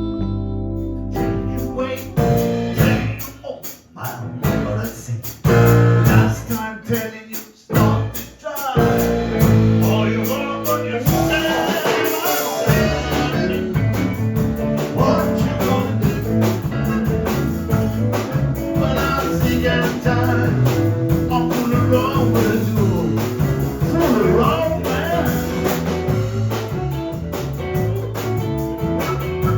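Live blues band playing, with guitar and a singing voice. The music drops out briefly twice in the first ten seconds, then runs on steadily.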